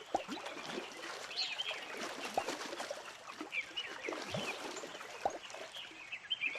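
Nature ambience: small birds chirping, with trickling water and scattered drip-like plops.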